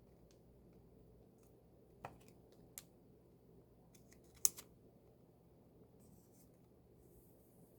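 Faint handling of an album's paper and plastic packaging: a few scattered clicks and taps, the loudest about four and a half seconds in, with light rustling near the end.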